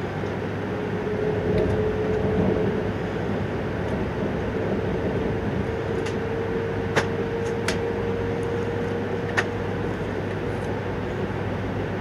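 Interior running noise of a Hokkaido Shinkansen Hayabusa train at speed, heard inside the passenger car: a steady rumble and hiss with a low hum and a faint steady tone. Three short sharp clicks come in the second half.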